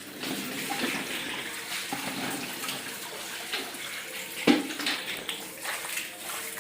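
Running, splashing water with scattered small knocks, and one sharper knock about four and a half seconds in.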